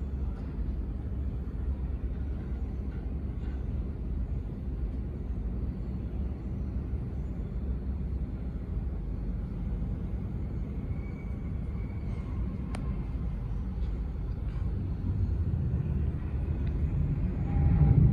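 Steady low engine rumble that grows louder near the end.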